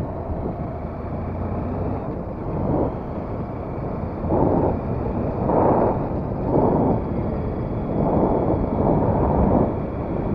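Steady rumbling road and wind noise on the microphone of a moving vehicle. From a few seconds in it is broken by a string of louder muffled bursts, each about half a second long, about one a second.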